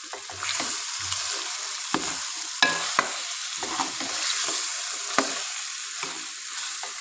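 Beef, tomatoes and freshly added ground spices sizzling in hot oil in a karahi as they are stirred and fried (bhuna), with a few sharp knocks and scrapes of the spoon against the pan.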